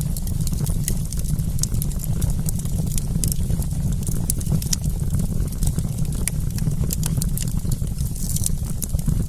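Wood campfire crackling: frequent sharp pops and snaps over a steady low rumble.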